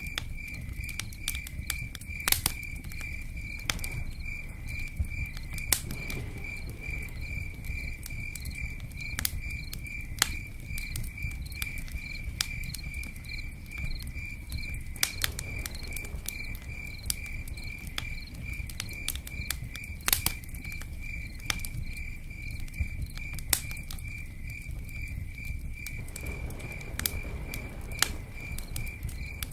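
Campfire crackling with scattered sharp pops over a low, steady rumble, while a cricket chirps in a steady pulsing rhythm throughout.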